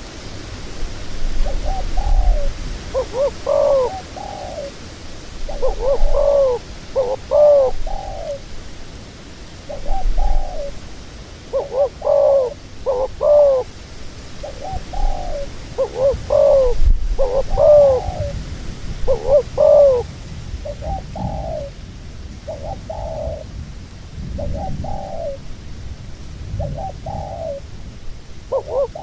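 Doves cooing, a long run of short coos coming in groups of two or three, with brief pauses between the groups.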